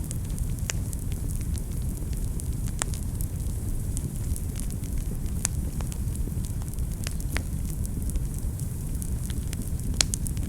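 Wood fire burning in a fireplace: a steady low rumble of flames with frequent irregular crackles and sharp pops, the loudest pop near the end.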